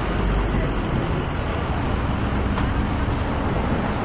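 Semi-truck's diesel engine running steadily, heard from inside the cab, under a constant hiss of road or rain noise.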